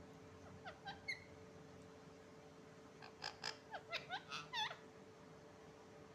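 Pet parrot making short, squeaky gliding chirps: three about a second in, then a quick run of about eight from about three seconds in.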